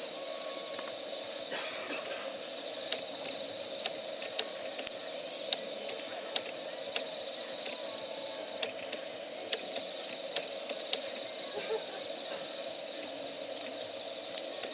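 Wood fire burning in a fire pit, with a steady hiss and frequent small crackles and pops. A steady high-pitched tone runs through it.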